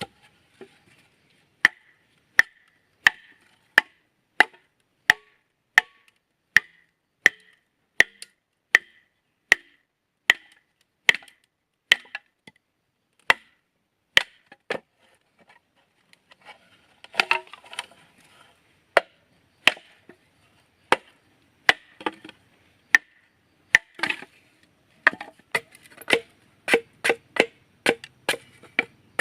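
Repeated sharp blows on wood or bamboo, a steady beat of about one strike every 0.7 seconds. There is a short pause with some scraping and rustling about halfway through, then the strikes resume, coming quicker near the end.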